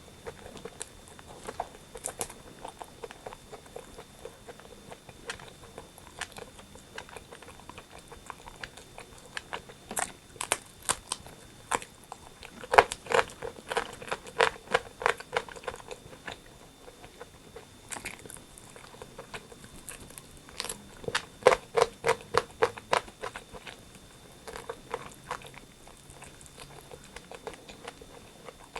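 Close-up mouth sounds of a person eating rotisserie chicken: chewing, biting and wet smacking, heard as fast runs of sharp clicks. The clicking grows louder and denser in two spells, about halfway through and again about three quarters of the way in.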